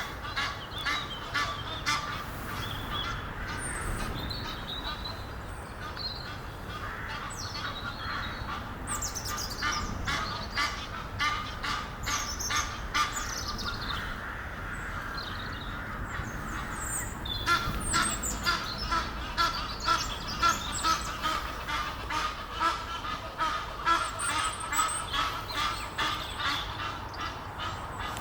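Pair of Egyptian geese calling in a long, rapid series of harsh honks, louder from about two-thirds of the way through.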